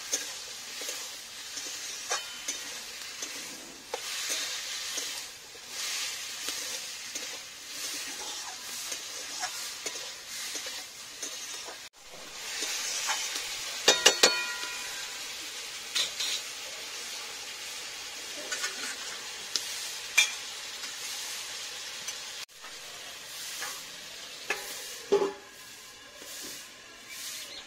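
Vegetables frying in a wok, sizzling steadily, while a metal spatula stirs and scrapes them with frequent clicks against the pan. Several loud ringing metal clinks come about halfway, and another clank near the end.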